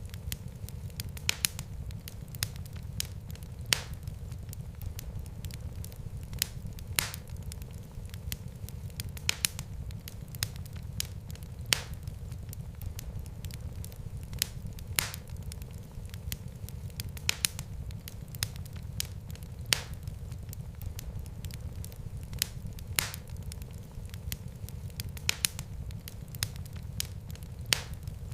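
Wood fire burning in a fireplace: a steady low rumble of the flames with irregular crackles and occasional louder pops, several a second.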